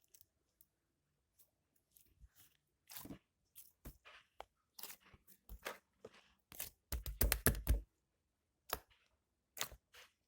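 Slime being squeezed and poked by hand: irregular sticky clicks and pops, with a dense run of them about seven seconds in.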